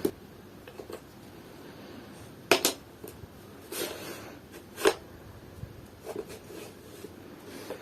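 Wooden puzzle pieces knocking against a wooden fruit board: a few sharp clacks, two close together about two and a half seconds in and another near five seconds, with lighter taps near the end.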